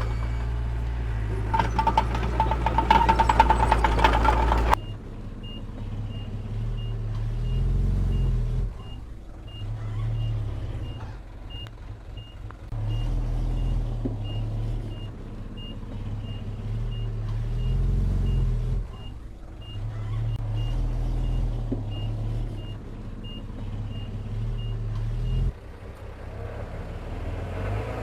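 Diesel engine of heavy earth-moving equipment running loudly with clatter. After a cut about five seconds in, a high reversing alarm beeps steadily over the engine, which surges and eases several times. The beeping and engine stop abruptly near the end.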